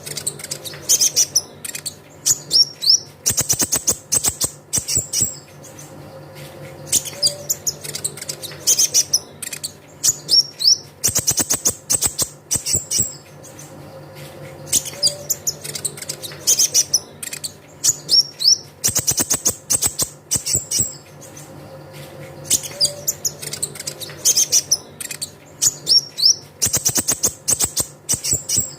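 Konin (kolibri ninja) sunbird song: high, thin chirps and quick rising whistles, then a fast rattling trill. The phrase repeats about every eight seconds, as a looped lure recording. A steady low hum runs underneath.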